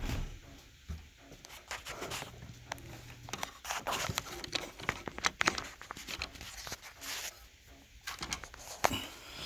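Wood fire burning in a closed fireplace insert, crackling with irregular sharp pops and snaps.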